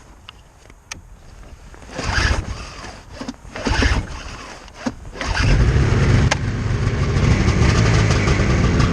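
2002 Ski-Doo MX Z 600 snowmobile's two-stroke twin being cold-started with the choke on. It turns over in two short bursts, then catches about five seconds in and keeps running steadily.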